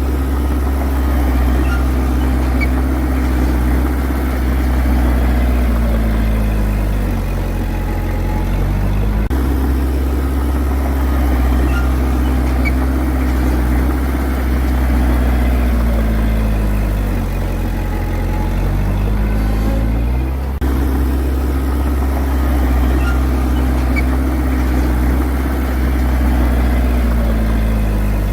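Bulldozer's diesel engine running under heavy load. Its pitch sags and recovers three times, roughly every eleven seconds, as the engine lugs down and picks back up.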